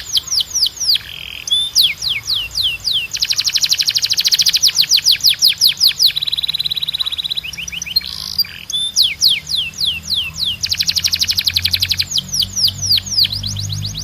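Timbrado canary singing: runs of quickly repeated falling whistled notes, some phrases slow and some very fast trills, with a short buzzing roll about halfway through.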